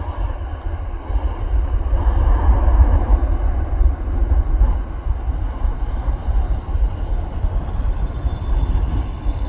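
Jet airliner engines rumbling, a steady deep roar that swells slightly about two seconds in.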